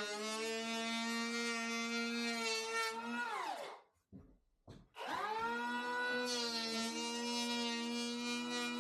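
A small electric motor runs at a steady pitch, winds down to a stop about three and a half seconds in, then spins back up to the same speed about a second later.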